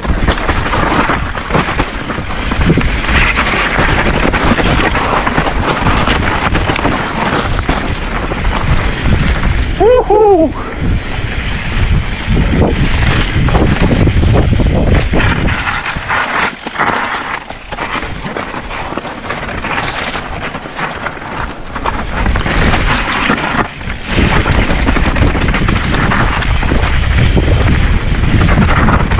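Specialized Stumpjumper mountain bike riding down rough, rocky singletrack at speed: tyres rumbling over rock and dirt, with frequent knocks and rattles from impacts and wind buffeting the action-camera microphone. A brief pitched squeal about ten seconds in.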